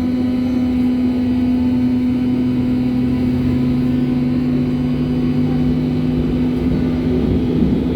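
Berlin U-Bahn H01 train running through the tunnel, heard from inside the car: a steady even rumble with a constant low hum. A second, lower hum comes in a few seconds in and fades near the end.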